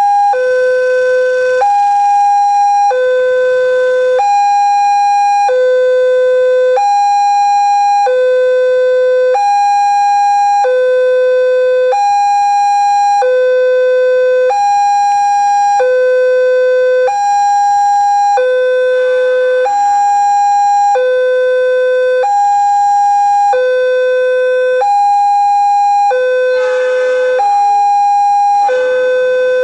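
Indonesian railway level-crossing alarm sounding continuously: an electronic two-tone signal alternating a low and a higher note about once a second, warning that a train is approaching and the barriers are down.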